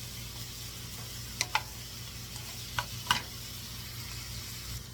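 Frozen sausages, onions and peppers sizzling steadily in a rice cooker pot, with four sharp clicks in two pairs, about a second and a half in and about three seconds in.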